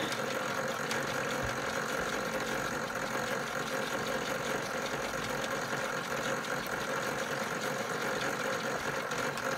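Europlay Tide Juniors Home toy washing machine in its wash cycle: its small electric motor makes a steady hum as the drum does its wash action.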